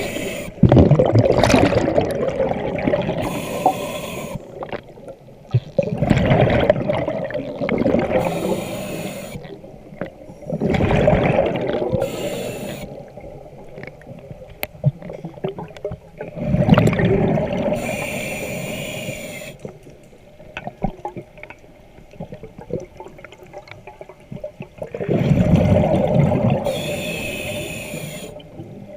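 A diver breathing underwater through a regulator, five breaths in turn: each is a loud rumble of exhaled bubbles followed by a short hiss of inhaled air.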